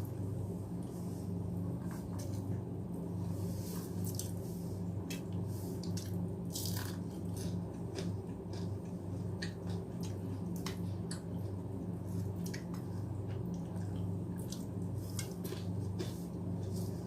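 Close-up eating sounds: many short wet clicks and squishes of chewing and of rice mixed with milk and mashed potato, over a steady low hum.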